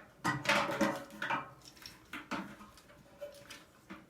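Metal and plastic parts of a microwave oven clattering and knocking together as it is taken apart by hand, a quick run of knocks in the first second and a half, then a few scattered ones.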